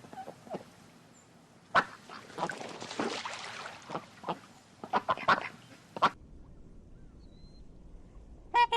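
Animal calls: a run of short, harsh calls that stops abruptly about six seconds in, then a new series of short, clear-pitched calls begins right at the end.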